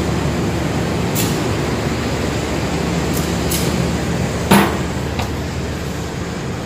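Steady low drone of a standing diesel passenger train idling at the platform. A few sharp knocks cut across it, the loudest about four and a half seconds in.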